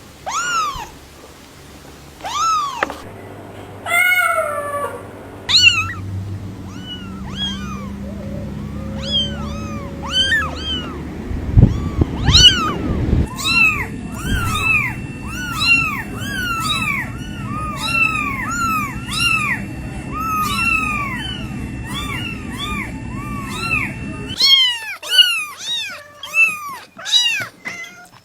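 Cats meowing over and over, with a long stretch of short, rapid, high mews in quick succession through the middle. A few low thumps come a little before the middle.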